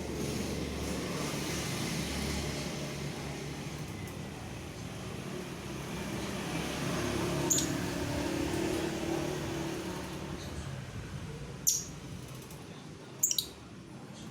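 Lovebird giving three short, sharp high chirps, one about halfway through and two near the end, over a steady background hum of noise.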